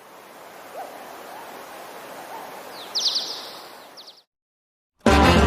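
Bird chirps over a steady hiss of outdoor ambience, with a quick run of sharp chirps about three seconds in; the ambience cuts off abruptly, and music starts near the end.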